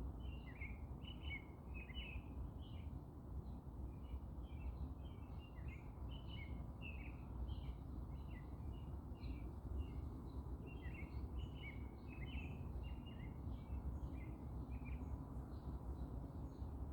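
Small birds chirping in a busy stream of short, quick high notes, over a steady low rumble of background noise.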